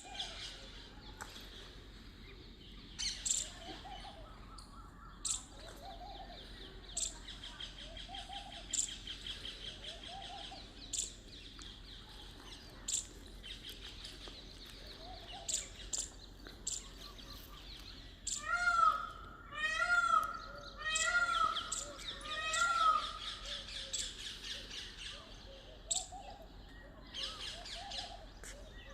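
A morning chorus of several birds: sharp chirps every second or two over a steady high trill, with softer low calls. About two-thirds of the way through comes a run of loud, harsh, repeated calls.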